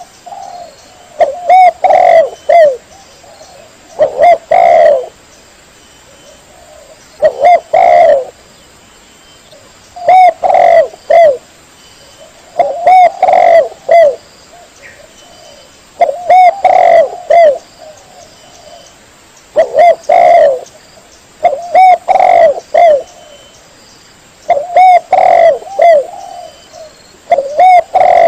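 Spotted dove (tekukur) cooing loudly and close up, a phrase of several short coos repeated about every three seconds. This is a master call recording, the kind used to train or lure doves.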